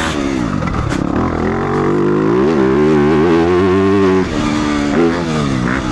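Motocross bike engine picked up from a microphone in the rider's helmet chin guard, revving up and down as the throttle is worked. It holds high revs through the middle, drops sharply as the throttle is shut about four seconds in, then picks up again.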